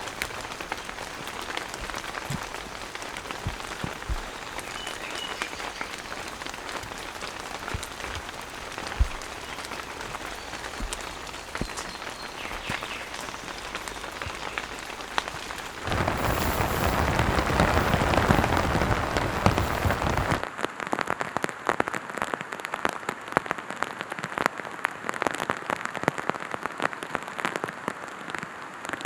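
Steady rain falling, with individual drops striking close by. About sixteen seconds in it changes to a louder, denser rush for some four seconds, then gives way to a sharper patter of many separate drop hits.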